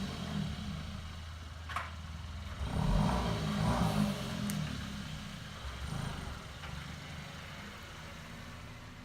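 2018 Hyundai Elantra Sport's 1.6-litre turbo four-cylinder exhaust, resonator removed, revving up briefly about three to four seconds in, then settling and growing steadily quieter. A sharp click sounds just under two seconds in.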